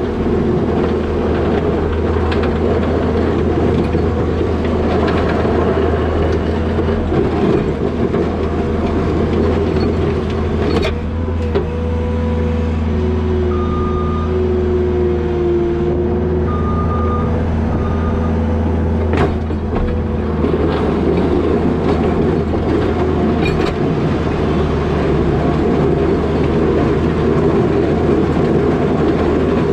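New Holland L220 skid steer's diesel engine running steadily while plowing snow. A steady whine joins it for several seconds in the middle.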